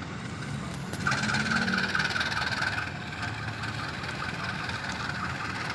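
An engine idling steadily, with a pulsing higher-pitched whine that comes in about a second in.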